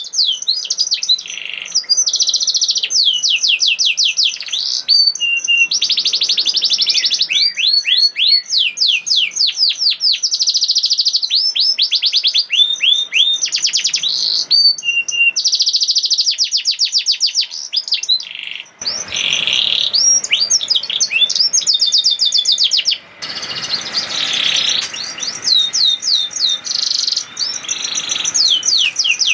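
Domestic canary singing a long, loud song of fast repeated trills and rolls, each phrase a quick run of identical sweeping notes before switching to the next. From about two-thirds of the way in, a steady hiss of background noise sits under the song.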